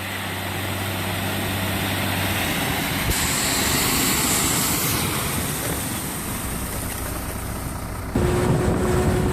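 Heavy truck engine running under a steady rush of road and wind noise. The sound changes abruptly about eight seconds in.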